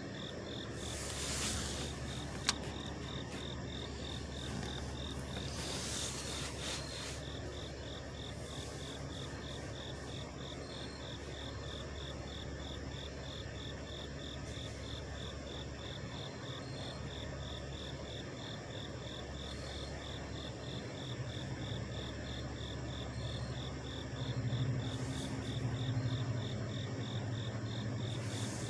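Several trucks' engines idling as a steady low hum, growing louder about four-fifths of the way in. Over it, night insects chirp in an even pulse of about two a second, with a couple of brief hissing swells early on.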